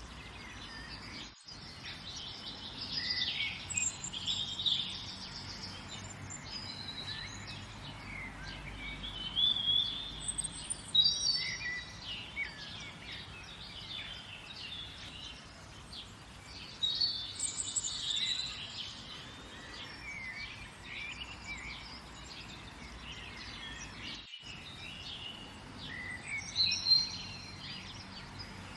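Several songbirds chirping and trilling over a steady background hiss. The sound cuts out for an instant twice.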